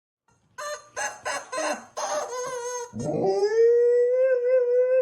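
Dog howling: a few short wavering yelps, then one long, steady howl that starts about three seconds in.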